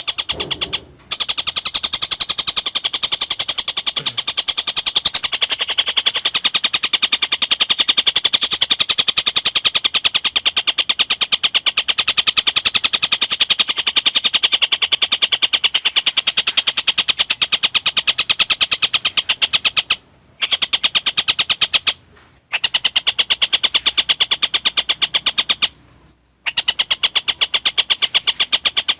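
Tengkek buto calling in a fast, unbroken string of evenly spaced, sharp high notes, with a few short breaks in the second half.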